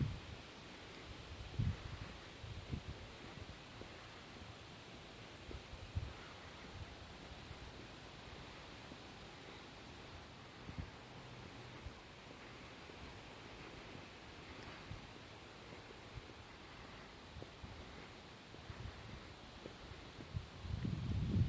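Steady, high-pitched chirring of insects in the countryside, unbroken throughout. A few low thumps come near the start and again near the end.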